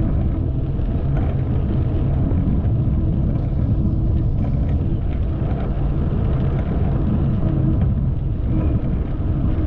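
Steady low rumble of a bicycle ride, with wind buffeting the microphone and tyre noise on the path.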